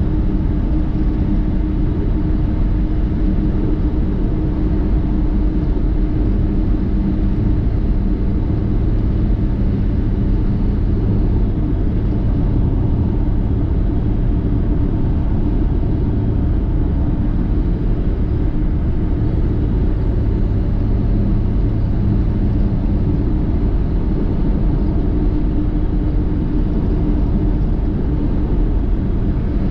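Steady rumble of a vehicle driving, road and engine noise with a constant low hum.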